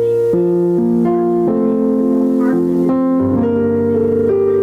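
Keyboard or electric piano playing slow, sustained chords, changing every second or so as soft worship accompaniment.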